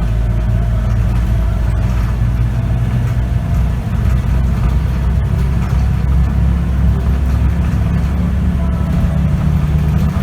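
Scania K94UB bus's diesel engine running steadily under way, heard from inside the cabin as a low, even drone with road noise.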